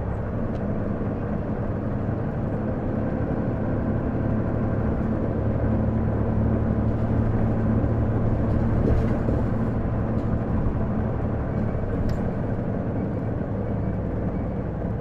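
Isuzu Erga city bus (PJ-LV234L1) heard from on board while under way, a steady engine drone. The drone grows louder to a peak a little past the middle and then eases off.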